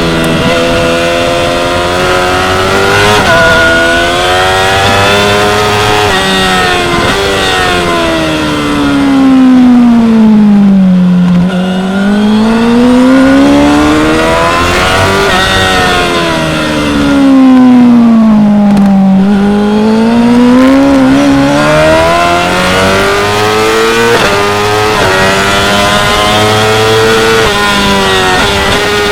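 2016 Yamaha R6's 599 cc inline-four engine at high revs on a race track, climbing through the gears in steps and dropping back under braking and downshifts. The pitch falls twice in long slides, about a third and two thirds of the way through, then climbs again.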